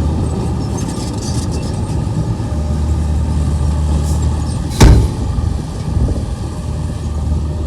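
Komatsu bulldozer's diesel engine running steadily with a low drone, and a single loud bang about five seconds in.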